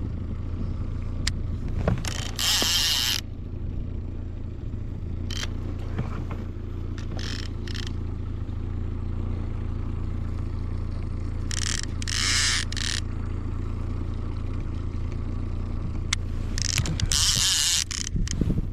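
Boat motor running steadily with a low hum, broken three times by short hissing bursts.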